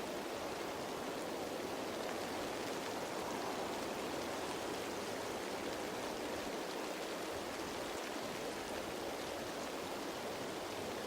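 Steady rain falling on leaves, an even patter with faint individual drop ticks through it.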